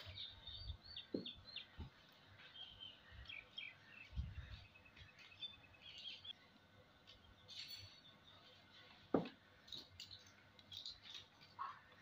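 Faint, short, high-pitched bird chirps: a quick run in the first two seconds, then scattered chirps. A few soft low knocks, and one sharp click a little after nine seconds that is the loudest sound.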